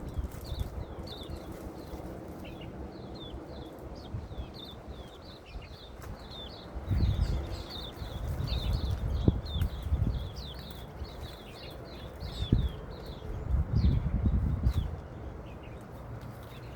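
Small birds chirping, a quick run of short high chirps several times a second. Low rumbling bumps come in twice, about seven seconds in and again near the end, louder than the birds.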